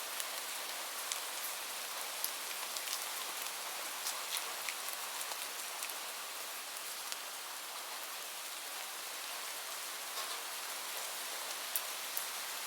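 Steady rain, an even hiss of drops, with scattered sharp crackles from a wood fire mixed in, a few of them louder near the end.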